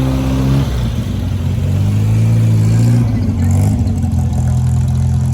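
Car engine running and being revved, its pitch rising over a couple of seconds and then dropping about three seconds in.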